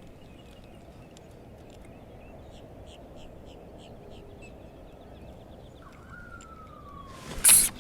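Birds chirping over and over in short high calls above a steady outdoor background hiss. A falling whistle-like glide comes near the end, then a sudden, very loud, brief noise.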